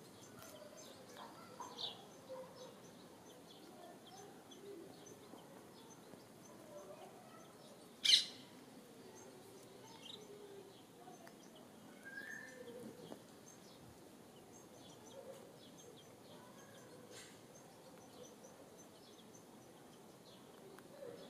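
Faint, scattered bird chirps and peeps, with one louder, sharp chirp about eight seconds in.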